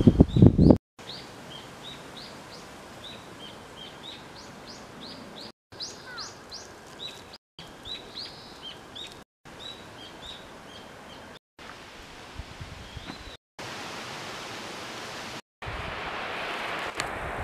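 Small songbirds chirping, many short high notes over a soft steady outdoor hiss, broken by several brief dead-silent gaps. A loud gust of wind buffets the microphone in the first second, and wind noise rises again near the end.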